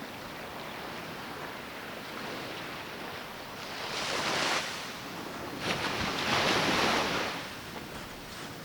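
Surf on the beach: a steady wash of waves with two waves breaking and rushing up the shore, one around the middle and a louder, longer one after it.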